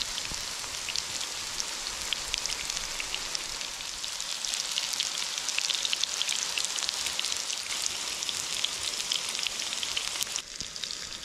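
Panko-crumbed fish cakes shallow-frying in hot oil in a frying pan: a steady sizzle dense with fine crackles and pops.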